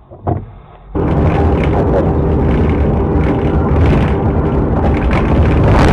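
Loud, steady noise of a moving vehicle, engine hum with road and wind noise, starting abruptly about a second in.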